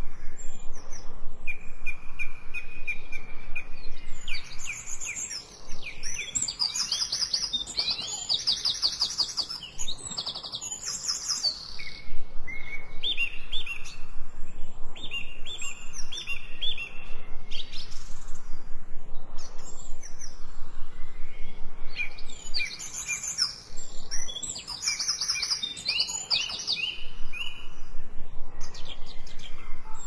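Songbirds singing: clear whistled notes and fast, bright trills. A quieter gap comes in the middle, and a similar run of song returns in the second half.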